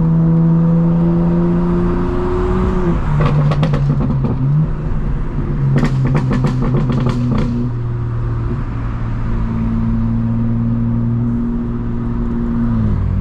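Straight-piped BMW M4 Competition's twin-turbo inline-six running as the car drives, its exhaust holding a steady tone that steps in pitch several times. There are two runs of rapid crackling pops from the exhaust, about three seconds in and again about six to seven seconds in.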